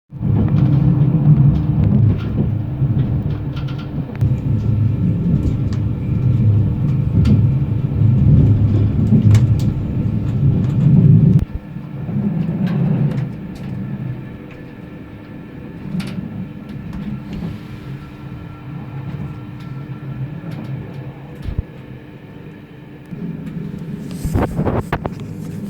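MOB GoldenPass Panoramic electric train running, a steady low rumble of wheels on rails with a faint hum and occasional sharp clicks; the rumble drops abruptly to a quieter level about eleven seconds in.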